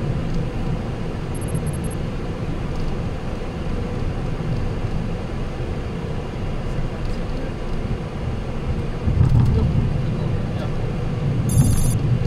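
Boeing 737-800 flight deck noise: a steady low rumble with a faint constant hum, swelling louder about nine seconds in. A few short, very high electronic pips sound near the start, and a rapid high pulsing near the end.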